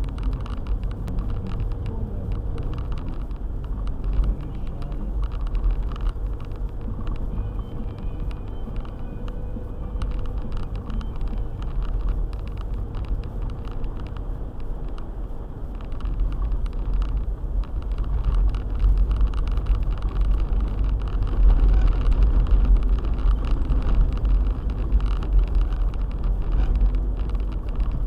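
Four-wheel-drive car driving on a snowy road: a steady low rumble of engine and tyres with scattered faint ticks, growing louder about halfway through.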